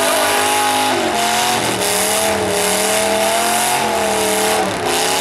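Demolition derby truck engines revving hard, the pitch rising and falling as the throttle changes.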